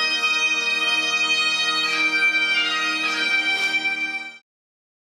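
Bagpipe music: a steady drone under a slow melody, cutting off abruptly about four and a half seconds in, leaving dead silence.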